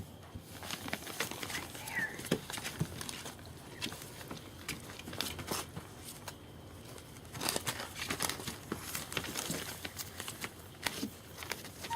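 German Shepherd puppies shuffling and mouthing about, with irregular rustling, scratching and small clicks, and one brief faint squeak about two seconds in.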